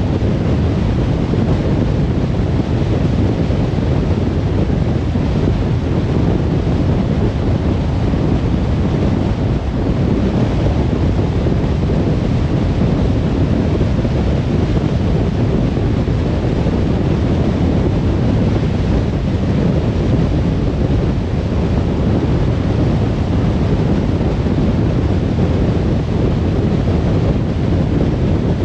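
Steady low road noise of a car driving at speed: tyre roar and wind rush, unchanging throughout.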